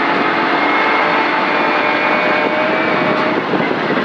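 Rally car heard from inside the cabin: the engine runs at fairly steady revs, its faint whine buried under a loud, even rush of road and tyre noise.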